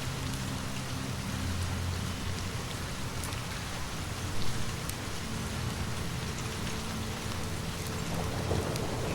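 Steady rain falling, with a low rumble of distant thunder underneath and a few scattered faint crackles; one louder pop comes about four and a half seconds in.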